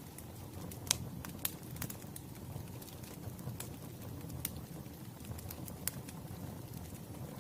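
Wood fire crackling, with irregular sharp pops over a low, steady rumble.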